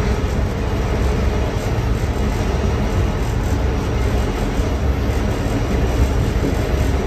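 Train running along the track, heard from on board: a steady low rumble of wheels and running gear, without break or change.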